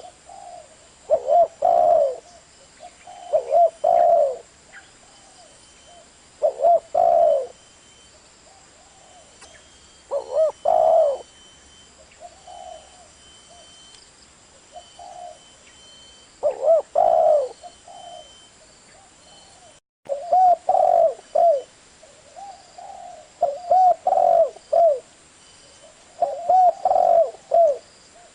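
Spotted dove cooing: short groups of low coos repeated every couple of seconds, with softer coos between and a few longer pauses.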